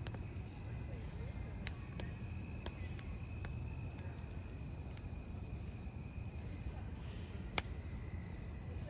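Crickets chirping in a steady high trill over a wood campfire burning with a low steady rumble and scattered sharp crackles, one louder snap about three-quarters of the way through.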